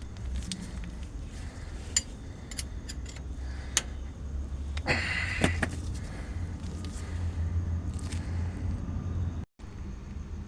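Steady low rumble of a vehicle engine running, with a few sharp metallic clinks and a brief jangling clatter about halfway through.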